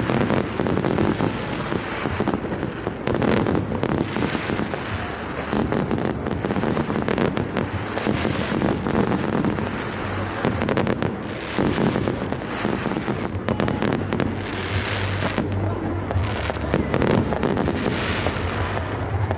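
Fireworks and firecrackers going off thick and fast, many cracks and bangs overlapping with no pause, with voices underneath.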